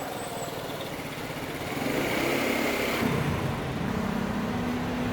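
Motor scooters running and passing in street traffic, with engines getting louder about two seconds in.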